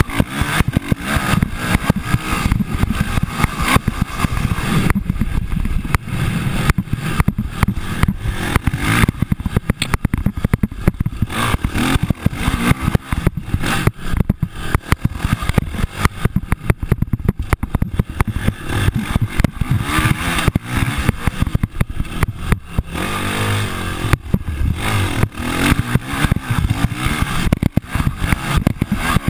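Motocross bike engines running and revving on a dirt track, rising and falling in pitch, with rattly clatter throughout.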